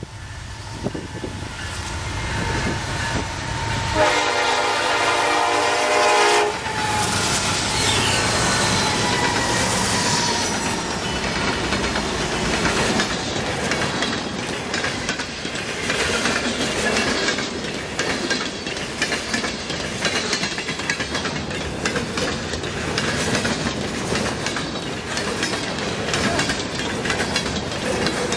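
Canadian National freight train passing at speed. The locomotive's horn sounds one steady blast of about two and a half seconds, some four seconds in. Then the freight cars rush by, wheels clattering rhythmically over the rail joints.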